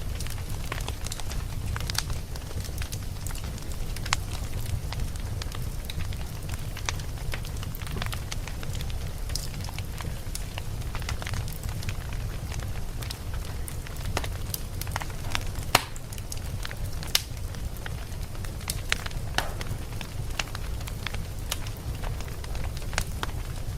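Wood campfire crackling, with irregular sharp pops and snaps over a steady low rumble; one pop about two-thirds of the way through stands out above the rest.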